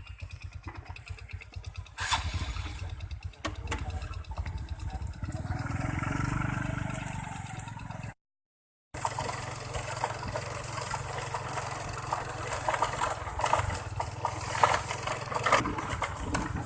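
A small engine running with a rapid even pulse that gets louder about two seconds in; the sound cuts out completely for under a second just past the middle, then carries on.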